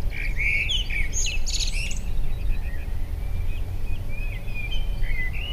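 Small birds chirping and calling, many short chirps and trills that come thickest in the first couple of seconds and then thin out, over a steady low rumble.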